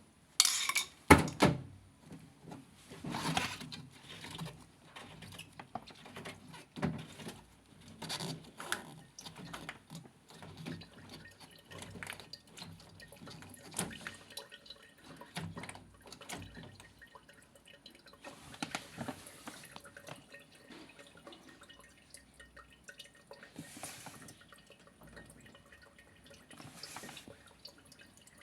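Water dripping and trickling, with scattered knocks and clatters of handling; the loudest knock comes about a second in. This fits a front-loading washing machine being drained of standing water because it won't drain.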